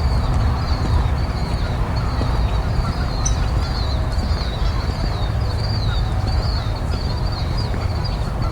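Small birds chirping continuously, high-pitched, with waterfowl calling on a pond, over a steady low rumble.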